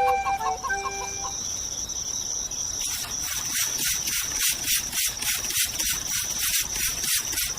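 A flute melody ends in the first second and a half. About three seconds in, insects start chirping: a steady high trill with regular pulses, about three a second.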